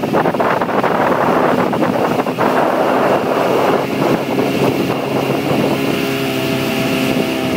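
Motorboat engine running with wind buffeting the microphone; the engine's steady hum comes through more clearly in the second half as the wind noise eases.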